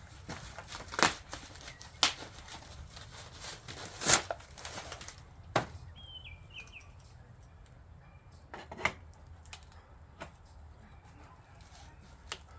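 E-bike packaging being cleared: a series of sharp snips and clicks from cutting zip ties and pulling off wrapping, with rustling of plastic and cardboard between them.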